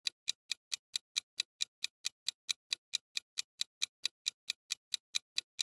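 Fast, even clock-like ticking, about four to five ticks a second, stopping abruptly: a quiz countdown-timer sound effect.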